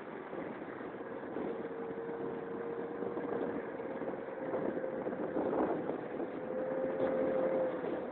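Keeway Hurricane scooter engine running at a steady speed under way, a steady whine over road and wind noise, its pitch rising slightly about seven seconds in.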